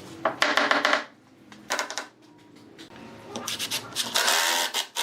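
Hand tool scraping over wood in three bursts of quick back-and-forth strokes, the last and longest one loudest.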